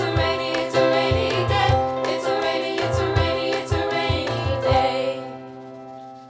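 Live band playing the final bars of a song with drum hits and sung vocals. The music stops about five seconds in and the last chord rings out and fades.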